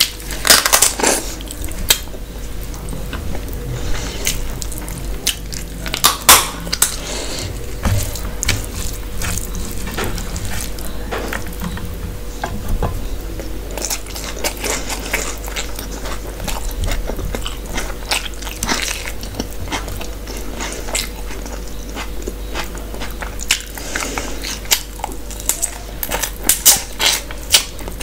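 Close-miked chewing and wet lip-smacking as a person eats handfuls of rice and curry by hand, in irregular clusters of sharp mouth clicks with short lulls between.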